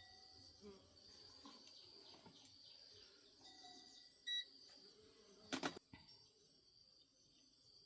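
Near silence with a faint steady high-pitched hiss, broken by a short beep about four seconds in and a brief sharp clatter about a second later.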